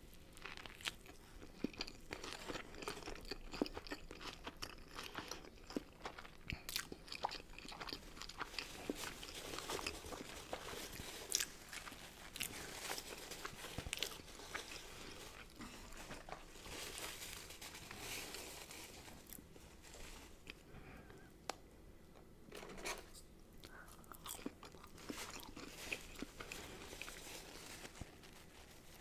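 A person biting and chewing crunchy fast food close to the microphone, with many sharp crunches and wet chewing. The crunching thins out for a couple of seconds about two-thirds of the way through.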